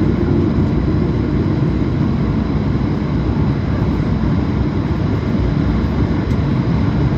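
Airbus A220 jet noise heard from inside the cabin: the Pratt & Whitney geared turbofans and rushing air make a steady, loud low rumble with a faint high whine over it.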